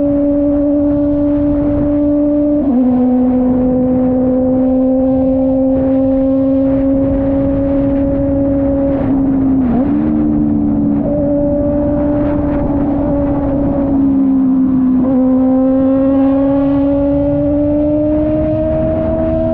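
Kove 450RR motorcycle engine under way on the road: a steady engine note that changes pitch with each gear change several times and climbs slowly between shifts as the bike gathers speed.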